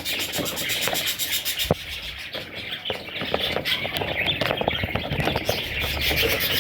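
Budgie chicks chirping continuously in a dense, scratchy chatter, with many short clicks mixed in.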